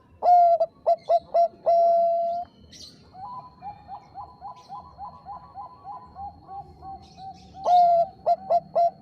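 Bangkok zebra dove (perkutut) cooing: a loud phrase of a long note, four quick short notes and a long held note, then a quieter fast run of short coos, then another loud phrase of long and short notes near the end.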